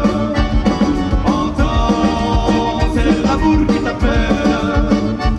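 Live band playing an upbeat Eastern European folk-pop tune, with accordion, bass guitar and drums over a steady beat.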